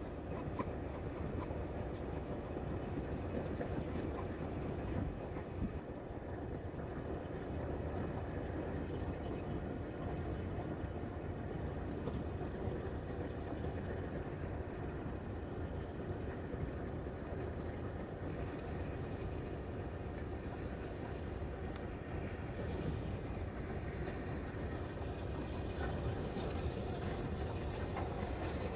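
A train running on the rails: a steady rumble of wheels and track that carries on without a break.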